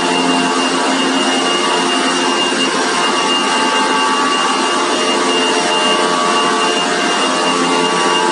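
Poultry-house manure removal machine running steadily, a continuous mechanical noise with a constant high whine over it.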